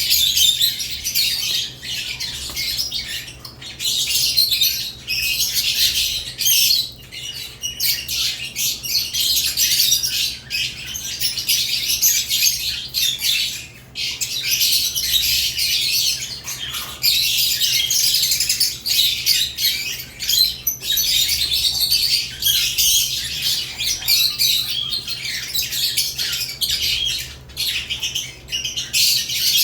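Caged lovebirds chattering, a dense stream of overlapping high-pitched chirps and squawks broken only by brief pauses.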